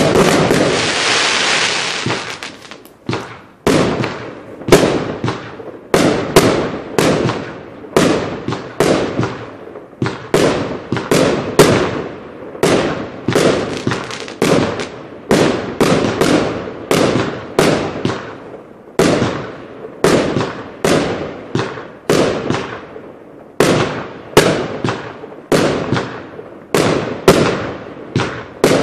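Compound firework cake firing: a couple of seconds of hissing near the start, then a long steady run of sharp shots, roughly one and a half a second, each bang trailing off.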